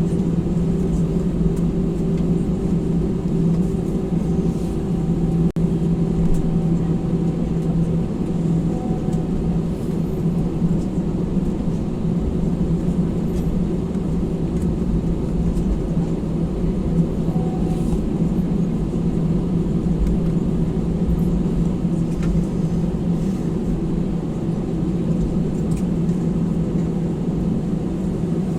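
Steady low rumble and hum inside the cabin of an Airbus A320 on the ground after landing, with its engines and air systems running at idle.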